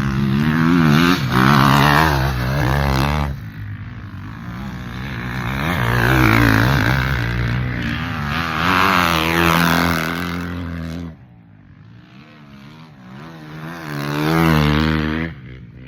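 Motocross dirt bikes racing past on the track, their engines revving and shifting, with the pitch rising and falling. The engine sound swells in three loud passes and drops away between them.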